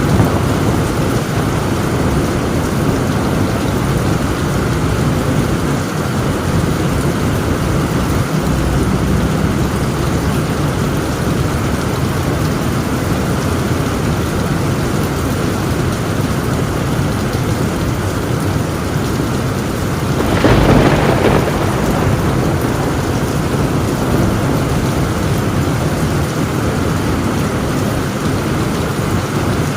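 Heavy rain drumming steadily on a tin roof, with a thunderclap cracking and rumbling about two-thirds of the way through.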